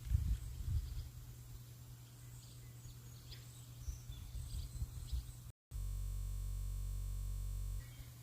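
Wind buffeting the microphone in uneven low gusts, with a few faint bird chirps. About five and a half seconds in, the sound drops out briefly and gives way to a steady low electronic drone for about two seconds.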